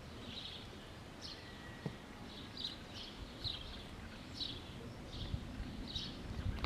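A small bird chirping faintly, short high chirps repeated about once a second, over a low outdoor background rumble.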